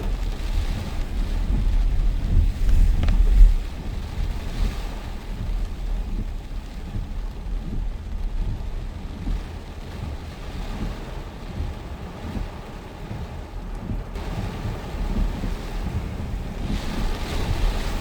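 Storm wind buffeting the microphone, a heavy low rumble that surges in a strong gust about three seconds in and then settles to a steadier rush.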